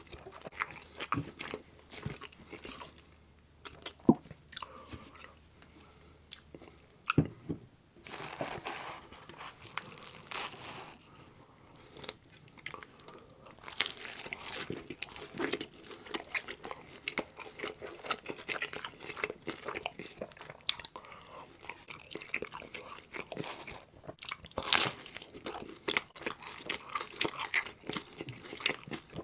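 Close-miked eating of pizza: bites into crust and irregular, wet chewing and crunching, with a quieter spell a few seconds in before the chewing picks up again.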